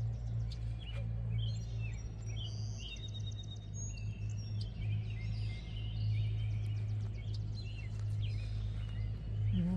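Songbirds chirping and singing: many short chirps, trills and clear whistled notes, over a steady low drone. A person starts humming a tune just before the end.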